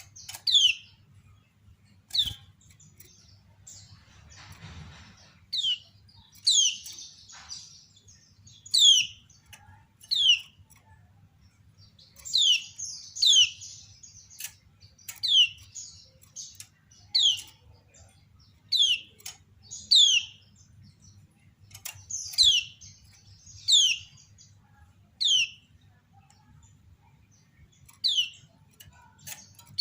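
Female kecial kuning (a white-eye) giving short, sharp 'ciak' calls, each a quick downward sweep, repeated about once every second or so, at times doubled with overlapping calls. This is the female's call that draws males to answer and sing.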